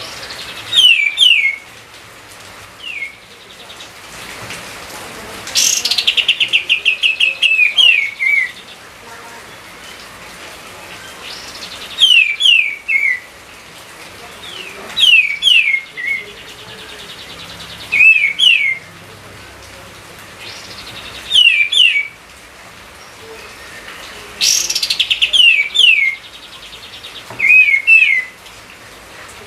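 A songbird singing short phrases of quick, down-slurred whistled notes every few seconds. Some phrases open with a rapid buzzy rattle.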